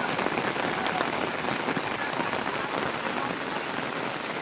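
Heavy rain falling steadily, many fine drop strikes blending into an even hiss.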